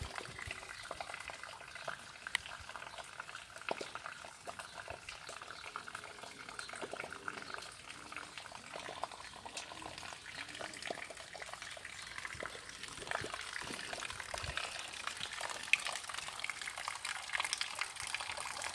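Rain falling steadily, a haze of many small irregular patters and drips.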